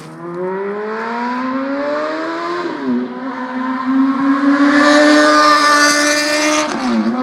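2006 Honda CBR600RR's inline-four engine and exhaust pulling through the gears: the note rises in pitch, drops briefly at a gear change about three seconds in, then holds and climbs slowly, with another drop near the end.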